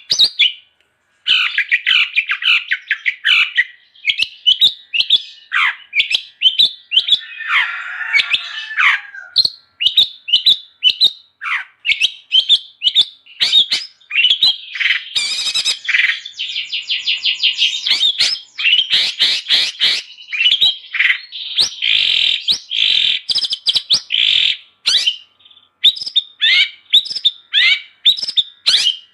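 Long-tailed shrike (cendet) singing at full, non-stop pace: a fast run of varied chirps and whistled notes, with a harsh scratchy phrase about eight seconds in and a rapid rattle around the middle.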